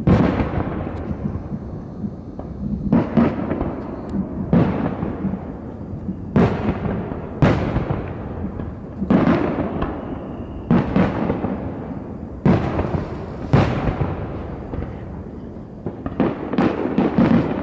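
Fireworks bursting overhead in quick succession, about a dozen booms roughly every one to two seconds, each a sharp bang trailing off in a rolling echo.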